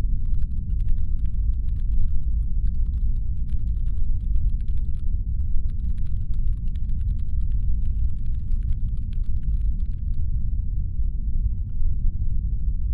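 Constant brown noise, a deep rumbling hum standing in for a spaceship's engines, with faint, quick, irregular clicks over it that stop about ten seconds in.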